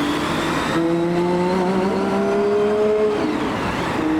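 Gordon Murray Automotive T50's Cosworth V12 accelerating hard, its pitch climbing through the gears. It upshifts about a second in and again near the three-second mark, then climbs again.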